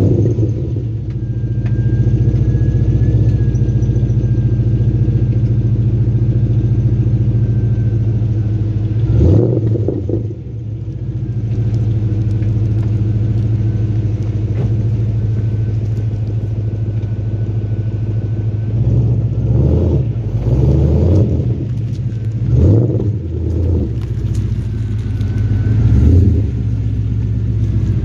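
Holden VZ SS's 5.7-litre LS1 V8 idling through a full dual exhaust with 4-1 headers, 200-cell cats and twin 2.5-inch pipes with hotdog mufflers, sounding deep, with light throttle blips to no more than 2,000 rpm, one about nine seconds in and several more in the last ten seconds. A faint steady squeak from a dry pulley runs under the idle.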